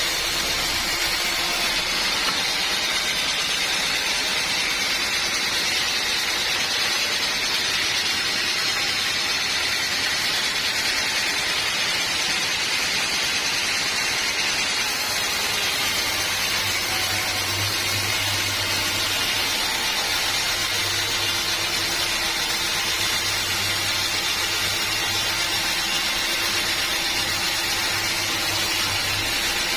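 Sawmill machinery running steadily with a continuous loud hiss of motor and blade. A low engine hum grows stronger a little past halfway through.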